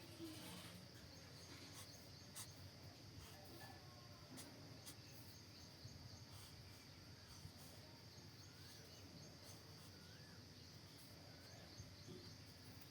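Near silence: a faint steady high hiss with a few faint scattered ticks.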